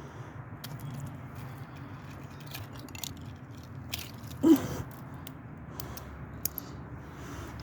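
Irregular crunching and crackling clicks, with a short pitched vocal sound about four and a half seconds in.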